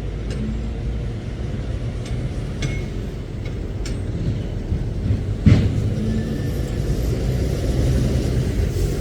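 Heavy lorries driving past with a steady low engine rumble and light rattling clicks, and one sharp loud clank about five and a half seconds in.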